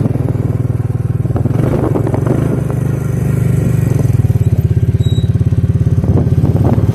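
Suzuki King Quad ATV's single-cylinder engine running steadily while riding, with an even pulsing beat that gets a little louder about halfway. A few faint knocks and crunches sound over it.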